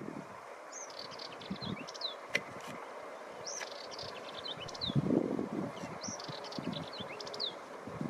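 Eurasian penduline tit singing: three short, similar phrases of thin high notes ending in a quick falling whistle, a couple of seconds apart. A brief low rumble about five seconds in.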